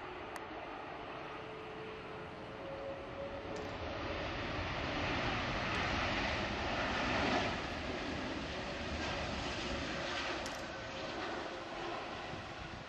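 Airbus A330-200 airliner's jet engines, a steady roar that swells to its loudest about seven seconds in and then eases off a little as the aircraft passes.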